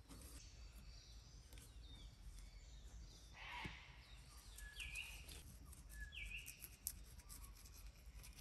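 Faint birdsong over a low background hiss: a bird gives short chirps that dip and rise in pitch, two alike about five and six seconds in. There is a brief rush of sound about three and a half seconds in and a sharp click about seven seconds in.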